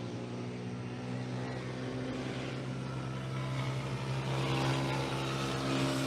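An engine running steadily, slowly growing louder.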